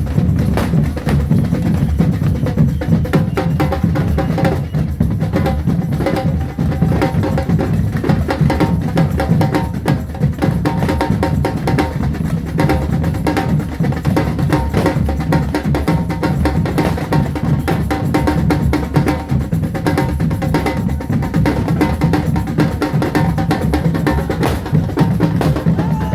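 A band of marching drums playing a fast, unbroken rhythm: deep bass-drum beats under rapid sharp strokes, with no let-up.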